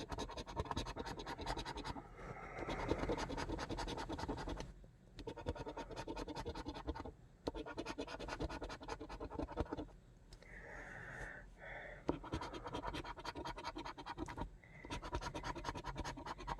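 Scratch-off lottery ticket being scratched, rasping in stretches of a couple of seconds with short pauses between.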